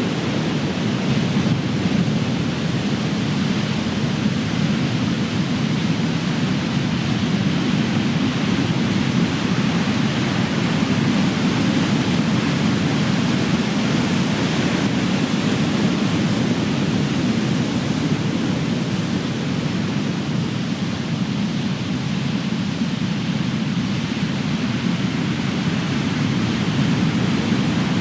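Ocean surf with big waves breaking and washing: a continuous deep rush that swells and eases slowly, with no single crash standing out.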